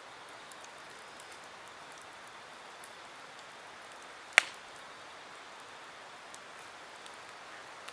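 Wood campfire burning with a steady hiss and scattered small crackles, and one loud sharp pop about four and a half seconds in.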